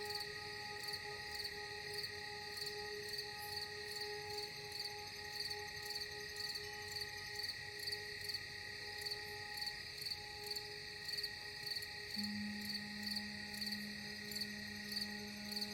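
Crickets chirping in an even rhythm, about two chirps a second, over a soft ambient music drone of steady held tones; a low note enters about three quarters of the way through.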